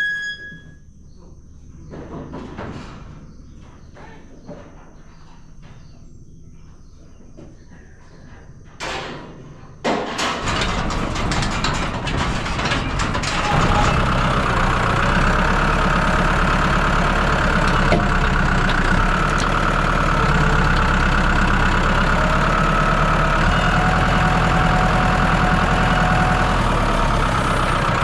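A few scattered clicks and knocks, then about ten seconds in a vehicle engine starts suddenly and runs steadily, getting louder a few seconds later and holding there.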